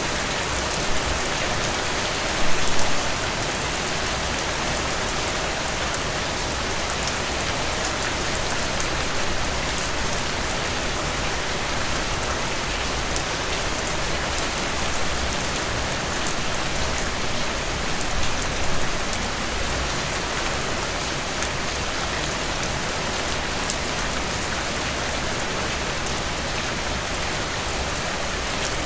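Steady rainfall pattering on surfaces, a dense even hiss with a few louder splashes of drops about three seconds in and again near the middle.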